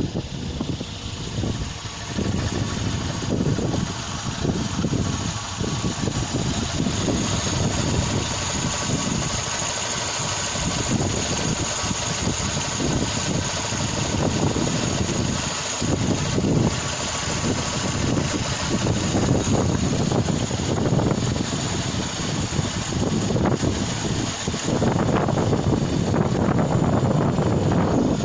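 UZAM-412 inline-four petrol engine with contactless electronic ignition running steadily, getting a little louder near the end.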